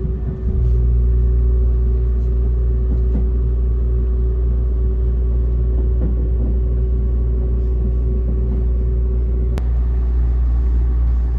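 Cabin running noise of a Seibu 001 series Laview limited express train under way: a steady low rumble with a faint steady hum, and a single sharp click about nine and a half seconds in.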